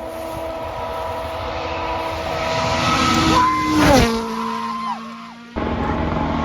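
Vehicle engine sounds, steady in pitch, that drop sharply in pitch about four seconds in. About a second and a half later the sound cuts off abruptly and another engine sound takes over.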